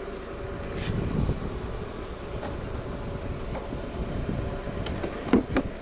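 Forklift running steadily while it lowers a load, a low rumble with a faint steady whine, and a few light clicks near the end.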